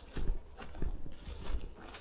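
Footsteps crunching through dry forest undergrowth: a step roughly every two-thirds of a second, each a dull thud with a crackle of twigs and dry moss.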